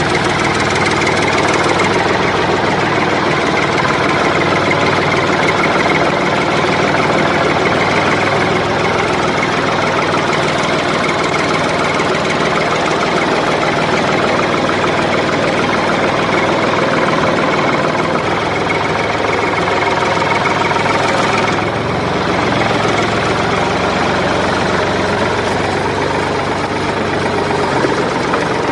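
A motor running steadily and loudly, with a slight drop in level and brightness about two-thirds of the way through.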